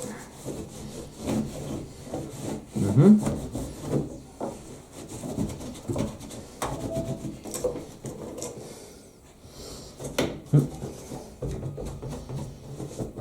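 Scourer sponge scrubbing lint off a tumble dryer's plastic control fascia: irregular rubbing and scraping strokes with a few short squeaks.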